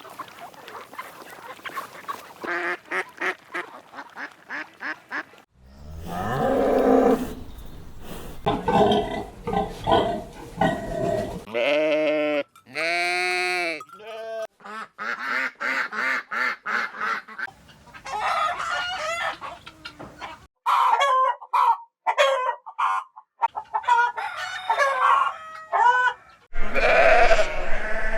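A run of barnyard animal calls one after another: chickens clucking and cackling in quick repeated notes, goose honks, and a few longer, strongly pitched livestock calls.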